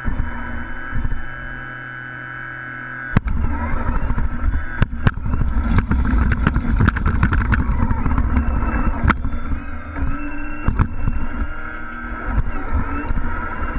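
Engine sound of scale RC model trucks: a steady hum, then about three seconds in a louder, deep rumbling engine sound cuts in suddenly, with scattered clicks and knocks over it.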